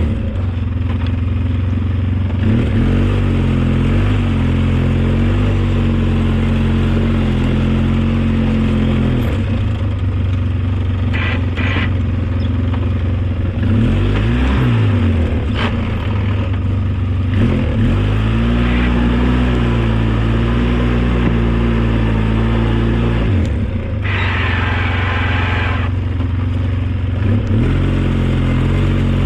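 Snow-plowing vehicle's engine running steadily, its revs dipping and picking back up several times as it works, with a few clanks about eleven to sixteen seconds in and a short rush of hiss near the end.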